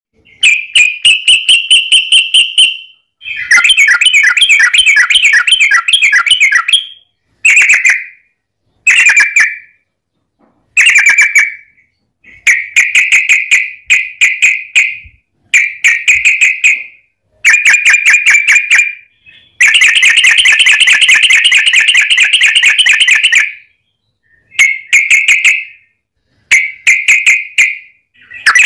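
Yellow-vented bulbul calling in loud bouts of rapid, chattering repeated notes, each bout lasting one to four seconds with short pauses between; one longer bout runs about four seconds from about twenty seconds in. It is a long rattling 'ropel' call, used to provoke other bulbuls into answering.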